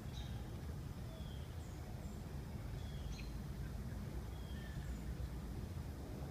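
Small birds giving short, high chirps and whistles every second or so over a steady low rumble.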